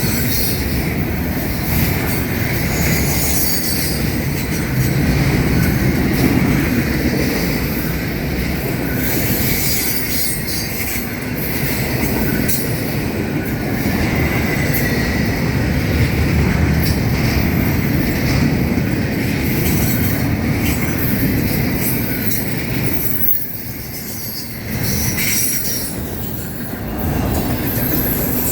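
A train's cars rolling past: a steady rumble of steel wheels on rail, with wheel squeal and clicks over the joints. The sound dips briefly near the end.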